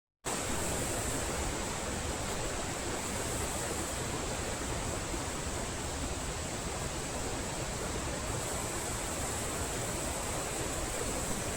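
Flowing stream water rushing steadily over rocks.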